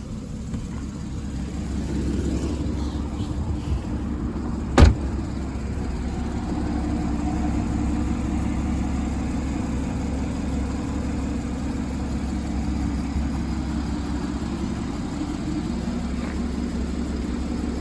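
Porsche Boxster 981's 2.7-litre flat-six idling steadily, with a single sharp click about five seconds in.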